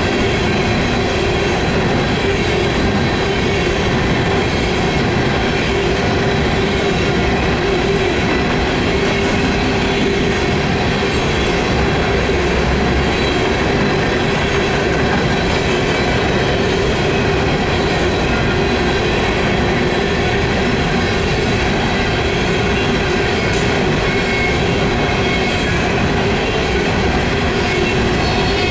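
Coal hopper cars of a BNSF unit coal train rolling steadily past, their wheels rumbling and rattling on the rails with a steady ringing whine over the top.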